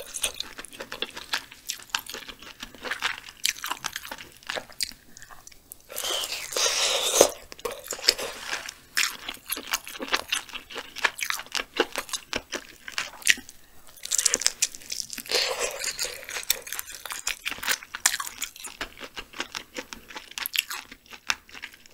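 Close-miked chewing of spicy braised chicken with beef intestines: wet, smacking mouth sounds with many quick crunchy clicks. There are two louder, longer bursts of mouth noise, about six and fourteen seconds in.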